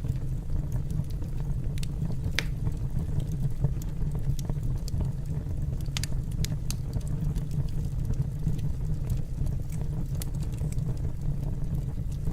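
Wood fire burning in a fireplace: a steady low rumble with scattered sharp crackles, one louder pop about two and a half seconds in.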